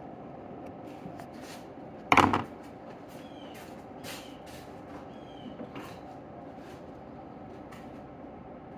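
Handling of small metal tools and carburetor parts on a workbench: scattered light clicks with one louder knock about two seconds in, over a steady faint hum.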